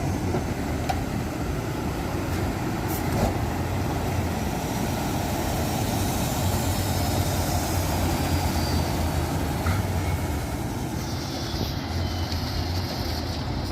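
Tatra truck-trial truck's diesel engine running steadily at moderate load, with a few brief knocks over it.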